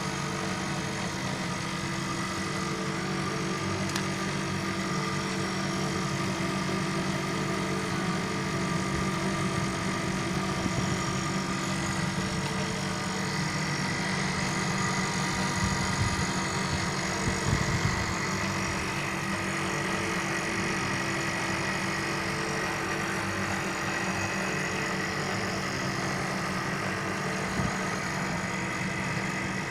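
Air conditioner unit running with a steady mechanical hum.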